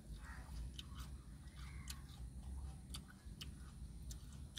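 A person chewing food with the mouth, soft smacking sounds broken by a few sharp clicks that come in the second half.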